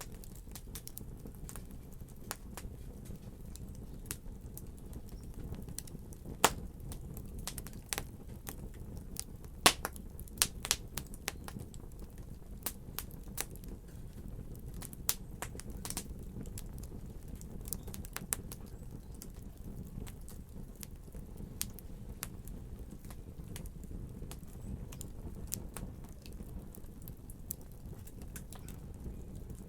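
Fireplace fire crackling: a steady low rumble of the flames with many small, irregular clicks and a few sharper pops, the loudest between about six and eleven seconds in.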